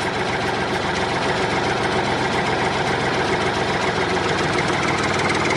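Engine idling steadily with a fast, even chugging.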